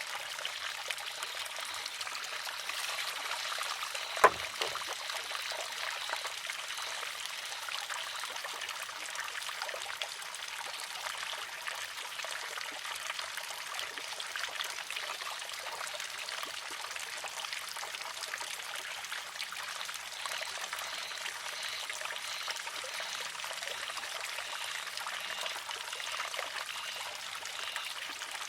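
Water trickling steadily into a wooden shishi-odoshi. About four seconds in comes a single sharp clack as the filled arm tips over and strikes the rock.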